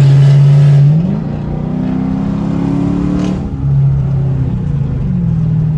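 V8 car exhaust: a steady drone, then the engine revs up with a rising pitch for about two seconds and drops back suddenly past the middle to a lower steady drone, as on acceleration and an upshift.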